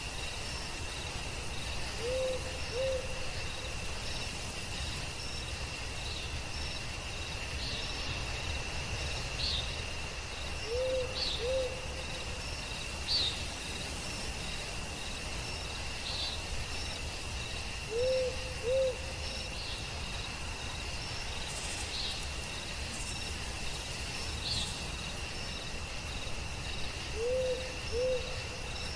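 An owl hooting in pairs of two short hoots, four times, about every eight seconds, over a steady high-pitched chorus of crickets, with scattered faint chirps.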